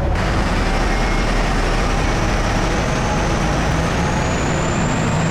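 Heavy truck engine running steadily, with a faint high whine that slowly drifts up in pitch.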